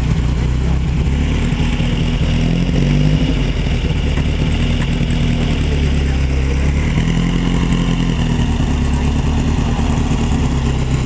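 Car engine running, its pitch rising and falling twice.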